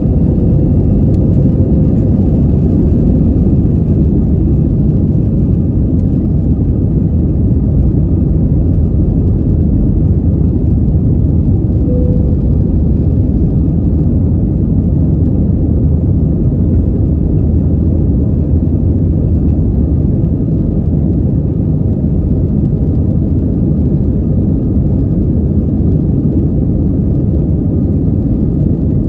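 Airbus airliner's jet engines and rushing air heard from inside the cabin: a loud, steady low rumble with a faint steady whine, as during the climb after take-off.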